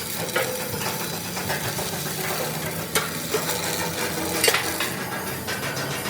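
Steady crackling sizzle of electric arc welding on steel, with a couple of sharp metal clicks partway through.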